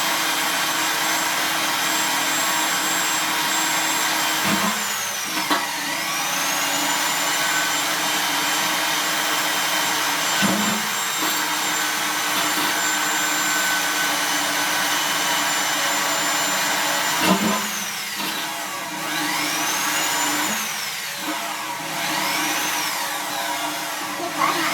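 Electric drill boring through the thin steel wall of a 44-gallon drum. Its motor whine runs steadily, then dips and recovers about three times as the drill bogs under pressure in the metal.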